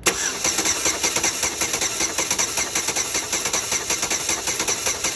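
Starter motor cranking a 2007 Chevy Impala's 3.5 L V6 over without it starting, with a fast even pulsing, for a compression test on cylinder number 6, which reads low at 150 psi against about 200 on the others.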